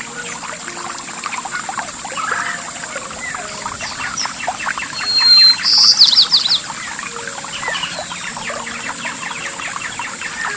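Songbirds chirping over trickling water. About five seconds in, one bird gives a loud call: a short whistle followed by a quick trill.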